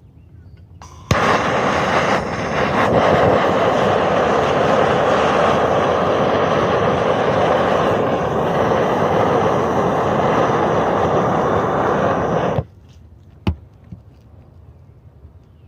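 Propane roofing torch burning with a steady roar while heating roofing material to melt off its adhesive backing; it starts abruptly about a second in and is shut off suddenly near the end, followed by a single sharp click.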